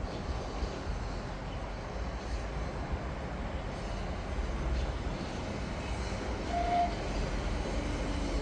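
Southern electric passenger train running through the station, a steady low rumble that swells slightly. A short high tone sounds briefly about six and a half seconds in.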